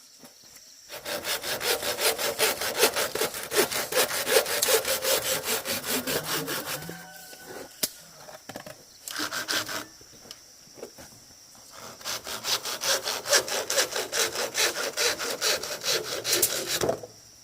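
Hand saw cutting through bamboo with rapid back-and-forth strokes, in two long spells with a short burst of strokes between them.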